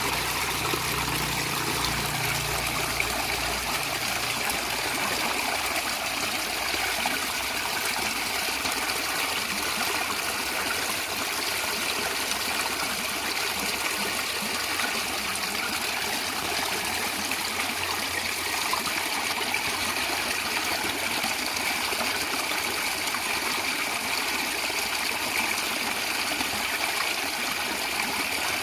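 A natural stream gurgling and trickling steadily, water running over stones in an even, continuous rush.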